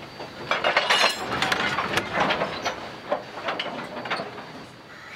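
Narrow-gauge train cars rolling past, wheels clicking and clanking irregularly over the rail with short metallic rings.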